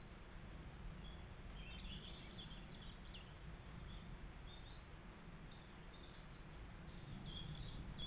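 Faint, short, high-pitched bird chirps, scattered through and clustering about two seconds in and again near the end, over a low steady background rumble.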